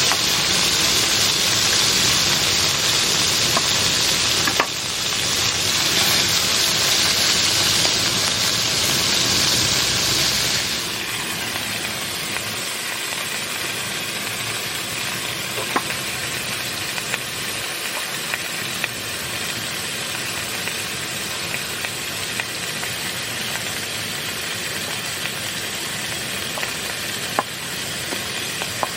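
Steady rain hissing, heavy for about the first ten seconds. It then changes abruptly to a softer, even hiss with scattered sharp ticks of single drops.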